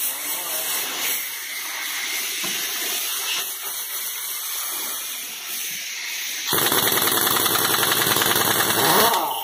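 Compressed air hissing steadily, then, about six and a half seconds in, a 1-inch pneumatic impact wrench hammering loudly for about two and a half seconds, as when loosening a truck wheel's lug nuts.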